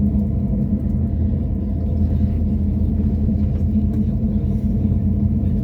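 Inside a passenger train's carriage: the steady low rumble of the train running on the rails, with a steady underlying hum from its running gear.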